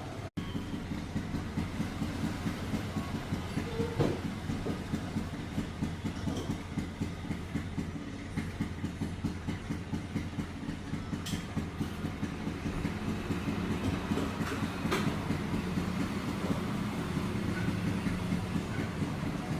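Mahindra XUV500 diesel engine running steadily with an even, rhythmic pulse, with a couple of short clicks along the way.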